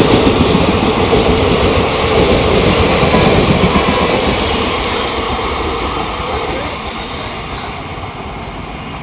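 Train hauled by an electric locomotive passing at speed: steady wheel and carriage noise on the rails, easing off and fading over the last few seconds as it draws away.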